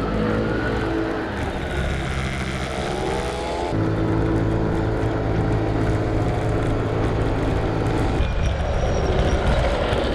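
Small 50 cc scooter engine running under way, its pitch rising and falling as it speeds up and eases off.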